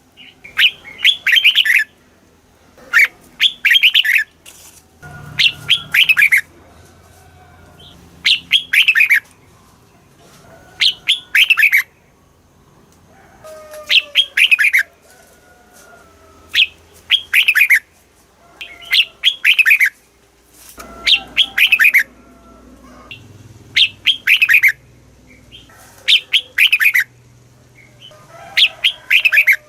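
Red-whiskered bulbul singing: short, loud phrases of quick falling notes, repeated every two to three seconds.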